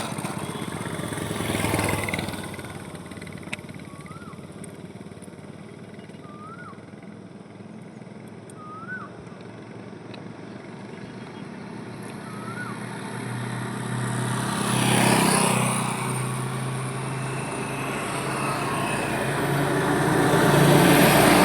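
Highway traffic: vehicles pass by, one just after the start and a louder one about 15 seconds in, with traffic building again near the end. In the quieter stretch between, four short chirps sound a couple of seconds apart.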